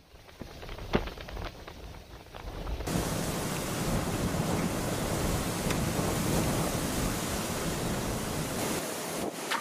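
Strong typhoon wind gusts blasting over the microphone as a loud, even rush of noise. It starts quieter with a few knocks and rises suddenly to full strength about three seconds in.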